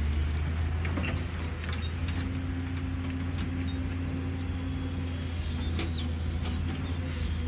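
Caterpillar excavator's diesel engine running steadily, with a few light clicks and knocks over it.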